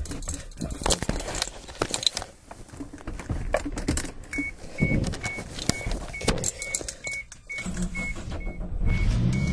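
Cold start of a 1991 Suzuki Sidekick's 1.3 L inline four-cylinder after sitting a week: keys rattle, a warning chime beeps about three times a second, and the starter cranks the engine. About eight seconds in it catches and runs at a steady fast cold idle.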